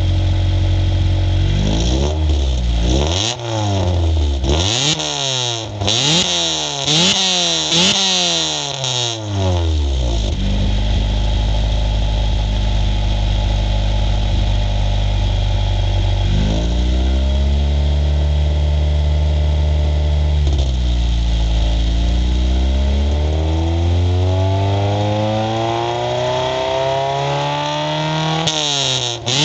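Honda CRX's B18A1 1.8-litre four-cylinder engine, breathing through a 3-inch intake, Megan header and 2¼-inch straight pipe with a Dynomax Super Turbo muffler. It idles, is blipped rapidly about nine times in a row, settles back to idle, then is held at raised revs and slowly climbed to a high pitch before dropping back near the end.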